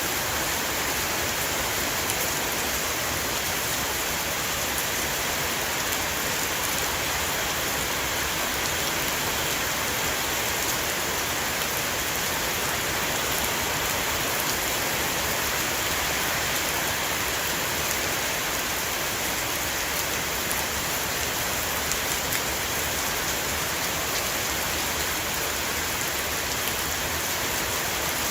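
Heavy rain shower falling on a roof: a dense, steady hiss of drops with fine individual ticks.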